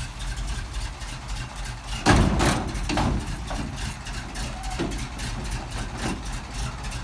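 The Ford FE big-block V8 of a 1971 Ford F700 cab-over fire truck idling steadily, with a heavy thud about two seconds in and a lighter knock about a second later as the tilt cab is lowered back onto its latches.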